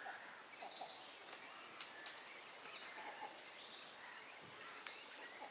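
A bird calling faintly outdoors, a short high note repeated about every two seconds, over steady background noise.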